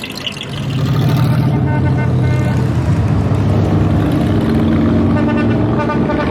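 A car engine running, becoming louder about half a second in, with two runs of short horn toots sounding over it.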